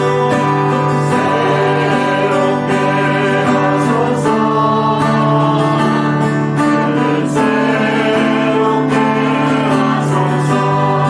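Church praise band performing a worship song: group singing over guitar and other instruments.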